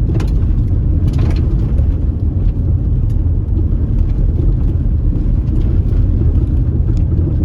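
Car driving on an unpaved, dusty road: a steady low rumble of tyres and engine, with a few sharp clicks in the first second or so.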